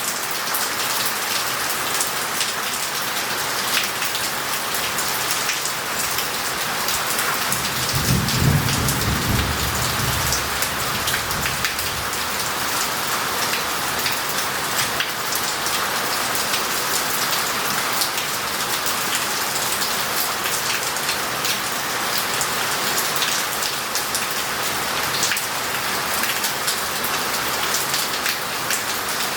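Heavy rain falling steadily on roof tiles and a paved street, with scattered drops ticking. About eight seconds in, a low rumble of thunder swells and fades over roughly four seconds.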